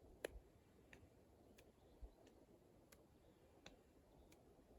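Near silence with faint, light taps about every two-thirds of a second: a medicine ball being passed around the body from hand to hand.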